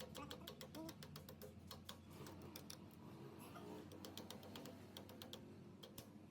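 Faint, irregular light clicks and taps, several a second, over a steady low hum.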